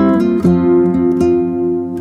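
Background music: an acoustic guitar strumming chords, with a new chord struck about half a second in.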